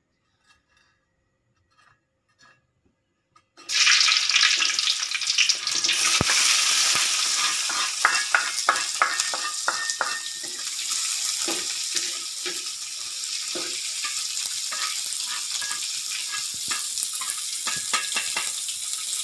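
Near silence, then about three and a half seconds in chopped chillies, shallots and garlic drop into hot oil in an aluminium wok and sizzle loudly. A metal spatula scrapes and knocks against the wok and the wooden chopping board as the spice paste is stir-fried, the sizzle easing a little later on.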